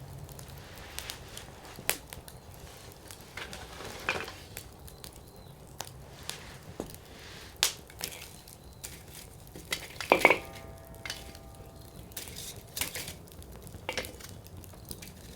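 Wood campfire burning in a Coleman Fire Disc: firewood crackling and popping at irregular intervals over a soft hiss of flame. The loudest pop comes about ten seconds in and is followed by a brief ringing tone.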